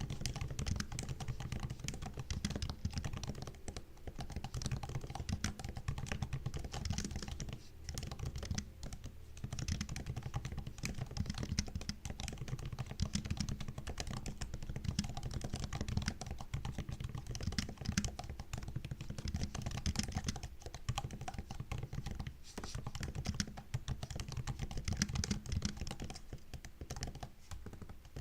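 Fast, continuous typing on a MacBook's laptop keyboard: a dense patter of soft key clicks, with a few brief pauses.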